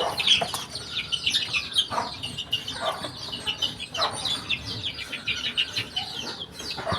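A brood of baby chicks peeping continuously in high, rapid, falling chirps, with a few lower falling calls at roughly one-second intervals.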